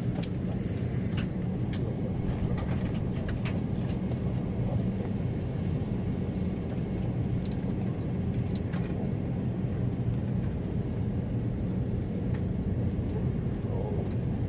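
Steady low drone of an Airbus A320 cabin, with a few faint clicks now and then.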